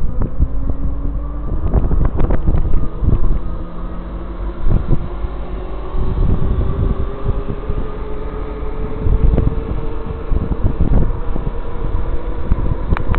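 Wind buffeting the microphone on a moving e-bike, a loud, uneven low rumble with scattered knocks and rattles. Under it runs a thin whine that slowly rises in pitch through most of the stretch.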